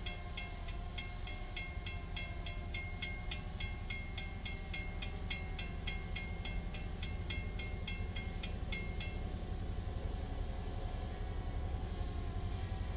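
Low steady rumble of the approaching diesel-hauled sugarcane train, led by a GP11 locomotive, with a bell dinging about three times a second that stops about nine seconds in. The bell is typical of a grade-crossing bell.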